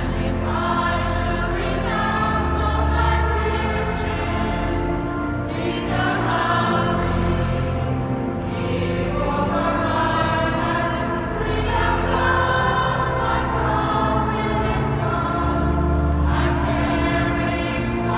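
Mixed choir singing a sacred choral piece, with phrases changing every few seconds over held low notes.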